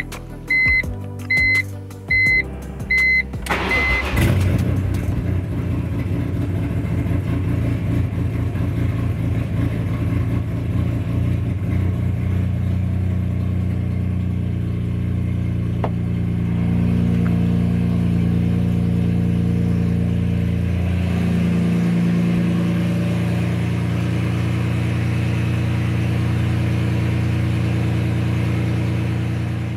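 BMW S54 3.2-litre inline-six engine's first start after the build: a short, regular series of beeps, then at about three and a half seconds the engine starts and settles into a steady idle.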